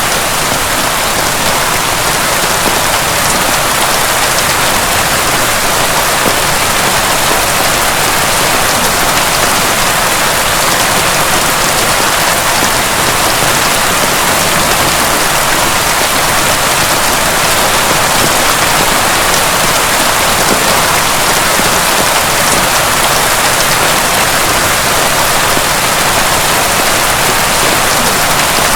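Heavy rain falling steadily: a dense, unbroken hiss of drops with fine scattered patters, with no thunder.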